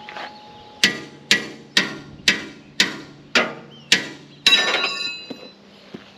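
Hammer striking metal eight times at about two blows a second, each blow ringing briefly, the last ringing longest.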